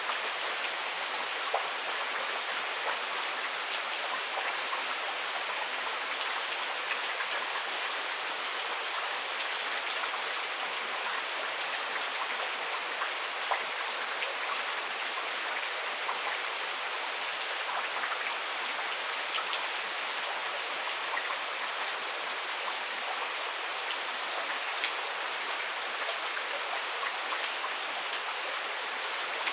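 Heavy rain falling steadily, with scattered sharper taps of individual drops.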